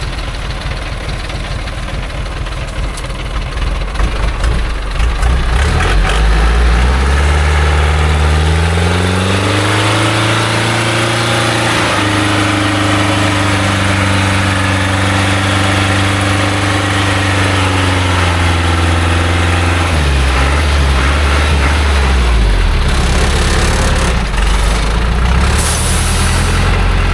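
Loaded logging truck's engine rising steadily in pitch over several seconds as it revs up. It holds at high revs under load for about eight seconds, then drops back to a lower, uneven run. A short hiss comes near the end.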